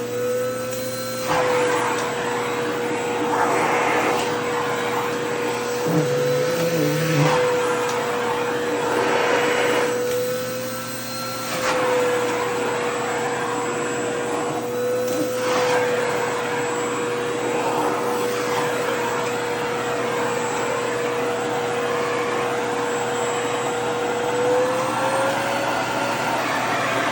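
Vacuum cleaner running continuously, a steady motor whine over rushing air, the rush changing in strength every few seconds as a skirt's fabric is drawn into the nozzle. The whine rises slightly near the end.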